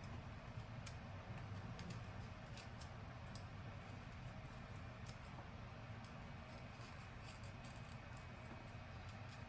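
Faint, scattered small clicks and taps of food being handled, likely an unripe avocado, over a steady low hum.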